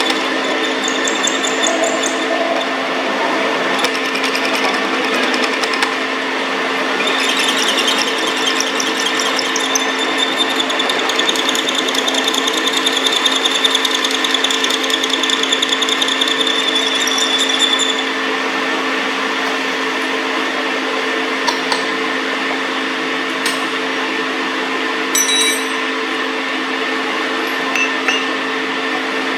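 Metal lathe running steadily with a constant hum. From about seven seconds to about eighteen seconds a higher, rough whine joins in, the tool cutting the steel workpiece. A few light clicks come near the end.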